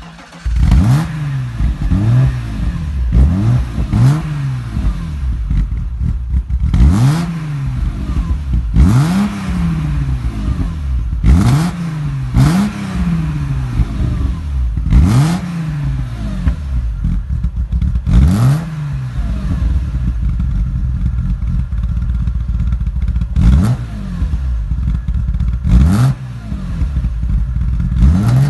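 BMW E36 M3's 3.0-litre straight-six, freshly started, idling roughly through an aftermarket exhaust, its engine speed swinging up and dropping back every second or two with sharp cracks at several of the peaks. The owner puts the rough idle down to unbalanced throttle body valves.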